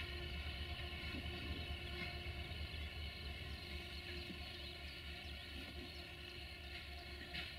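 Diesel-hauled passenger train running away from the listener: a steady rumble of the distant locomotive and the wheels on the rails, slowly fading. A sharp click of the wheels over the track sounds near the end.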